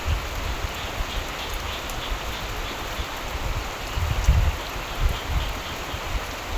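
Steady rain falling, with uneven low rumbling swells underneath, the strongest about four seconds in.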